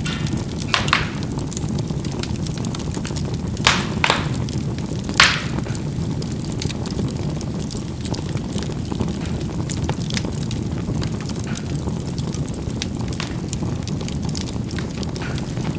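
Charcoal burning in a fireplace: a steady low rumble of the fire under frequent small crackles, with several louder pops in the first half as the charcoal bursts.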